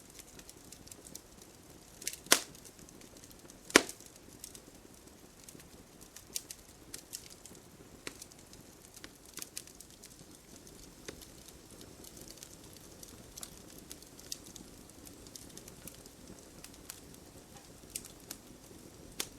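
Campfire burning: wood crackling with scattered sharp pops, the two loudest about two and four seconds in, over a low steady rush.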